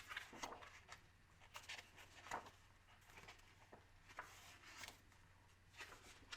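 Faint, scattered rustles and soft clicks of paper, as a picture book's pages are handled and turned.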